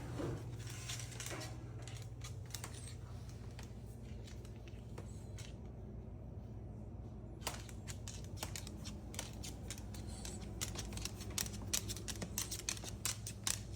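Irregular light clicks and taps, denser in the second half, from a macaw moving about on a hard surface, over a steady low hum.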